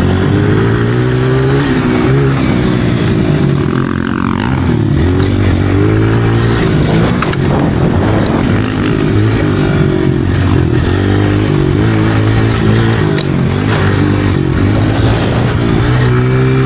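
Motocross dirt bike engine being ridden, revving up and dropping back again and again, its pitch rising and falling every second or two.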